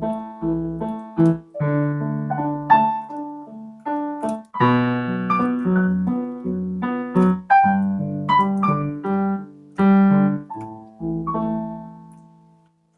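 Piano instrumental break: struck chords under a melody line, each note ringing and decaying, the last chord fading out near the end.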